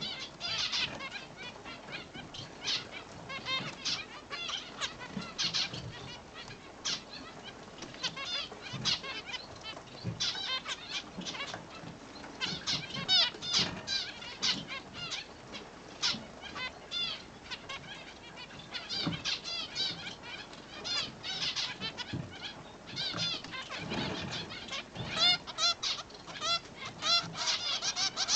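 Zebra finches chirping: many short, high calls in quick succession, growing louder and denser near the end.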